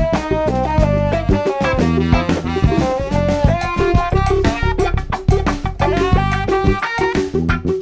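Funk jam band playing live: drum kit keeping a steady beat under bass guitar and guitar, with saxophone and trumpet carrying a stepping melody line.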